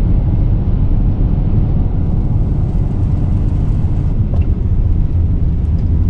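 Strong gale-force wind buffeting the microphone: a loud, steady low rumble.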